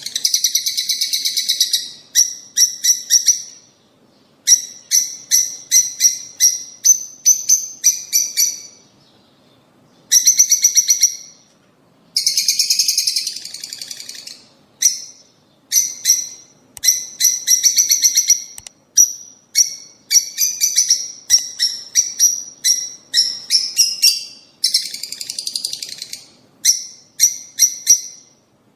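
Lovebirds calling: loud, shrill chirps repeated in quick runs, with a few longer bursts of dense chatter and short pauses between runs.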